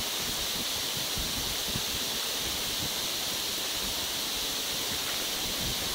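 Steady rushing hiss of wind on the microphone during movement, even in level throughout.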